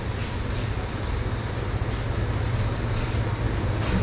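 Narrow-gauge forest railway train running: a steady low rumble with a few sharp clicks from the wheels and rails.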